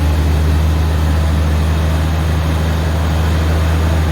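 Harvester engine running steadily at idle, a low, even hum just after it started up on the first turn.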